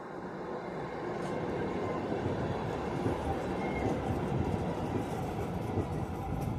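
Tram running along the track, a steady rolling rumble that grows gradually louder.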